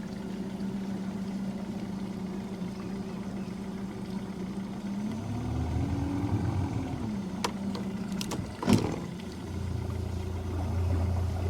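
A boat's motor running with a steady hum, its pitch rising and then falling back a little past halfway, with a deeper rumble underneath from then on. A sharp knock about three quarters of the way through is the loudest sound.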